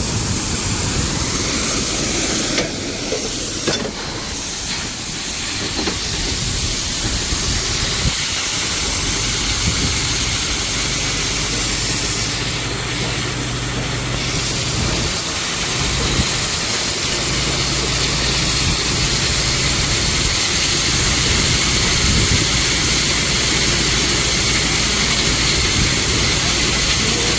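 Heavy truck's diesel engine running under a loud, steady hiss while the truck is being unloaded.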